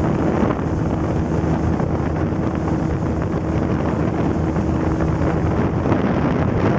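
Small boat's motor running steadily while underway, with wind buffeting the microphone.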